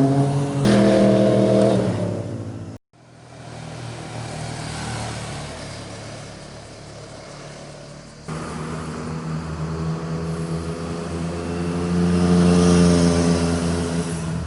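Motorcycle engines passing at speed in a series of separate pass-bys: one bike's engine note sags and fades, the sound cuts out for a moment about three seconds in, then another approaches and passes with a hissing rise and fall, and a third comes in suddenly, its engine note climbing under acceleration before easing off near the end.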